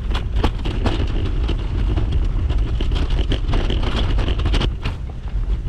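Wind buffeting the microphone with a heavy, steady low rumble, broken by scattered sharp crunches and knocks.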